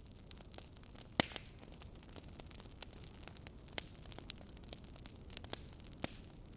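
Wood fire crackling in a fireplace: a steady low rush with irregular small snaps and a few louder pops, the loudest about a second in.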